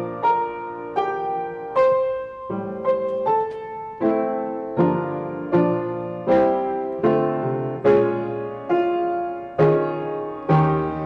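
Piano playing a slow, quiet piece of even chords, each chord struck and left to fade.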